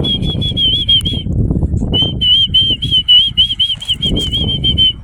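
Small falcon, a male American kestrel, giving a rapid series of high, wavering "klee-klee-klee" call notes in two runs broken by a brief pause about a second in. A loud low rumbling noise runs underneath.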